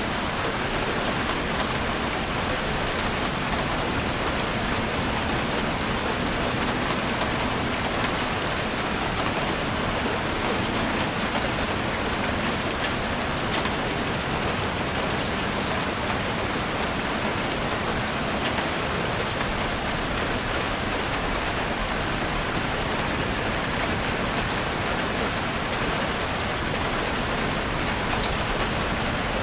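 Heavy rain falling steadily on a roof, a dense even hiss with many fine individual drop ticks.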